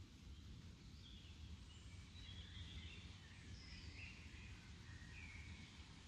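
Faint birdsong: a few small birds give short chirps and warbling phrases over a steady low rumble of outdoor ambience.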